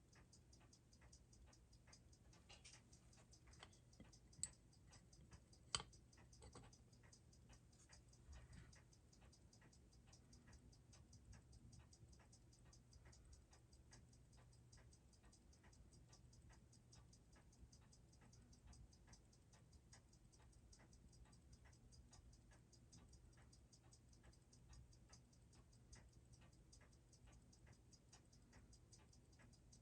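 Seiko 6R15 automatic watch movement ticking faintly in a rapid, even rhythm as it runs after service; the watchmaker believes its hairspring is out of flat, costing about 10 degrees of amplitude. Two sharper clicks come about four and six seconds in.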